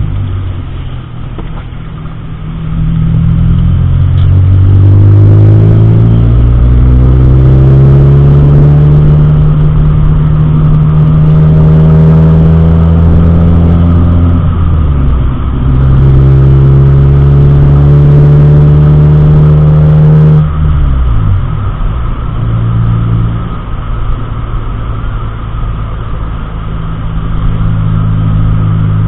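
Car engine accelerating, its pitch rising steadily for several seconds, dipping briefly as if for a gear change and rising again, then easing off about two-thirds of the way through to a lower steady drone.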